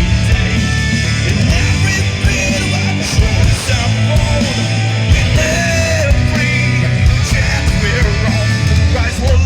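Live rock band playing loudly, with heavy bass and drums, electric guitar and a vocal or lead line.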